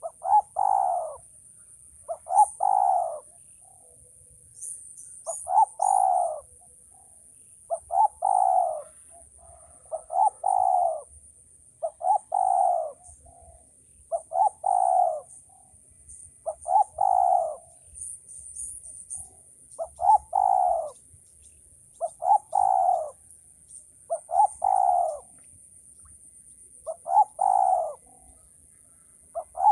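Male spotted dove cooing: a short lead note then a longer rolling coo, the phrase repeated about every two seconds.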